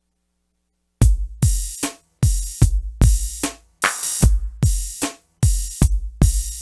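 IK Multimedia Uno Drum drum machine playing a steady electronic beat, starting about a second in: deep kicks that drop in pitch, with snare and hi-hat hits over them at about two to three hits a second.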